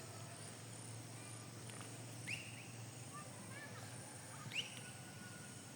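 A bird calling twice, each a short sharp upward-sweeping note, about two seconds apart, with a few fainter chirps between, over a quiet rural background with a faint steady high-pitched hum.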